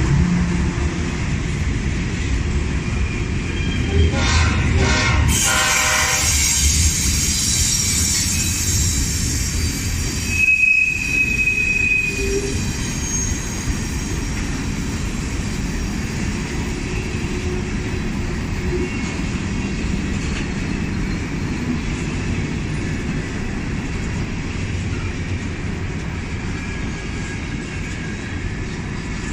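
Freight train rolling past: a steady rumble of wheels on the rails with high-pitched wheel squeal, and a brief sharper squeal about ten seconds in.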